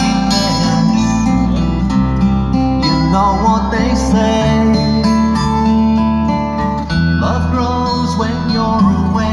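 A pop song with strummed acoustic guitar and a singing voice, played through a Toyota Revo pickup's sound-quality (SQL) car audio system, whose crossover points are set but which has not yet been tuned.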